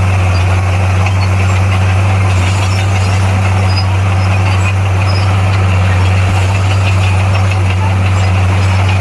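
Heavy diesel engine of earthmoving equipment running at a steady, even speed with a deep, unchanging hum.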